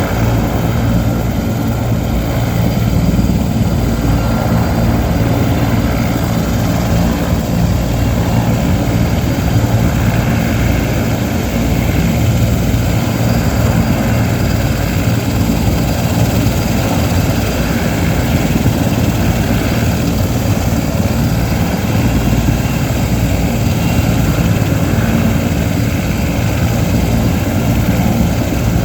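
Sikorsky S-64 Skycrane helicopter running loud and steady: a low rotor beat with the steady whine of its twin turbine engines.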